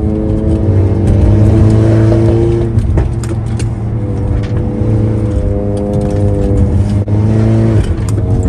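Stage 2+ tuned Audi TT engine pulling hard under acceleration, its pitch climbing through a gear, dropping at an upshift about three seconds in, then climbing again to another upshift near the end.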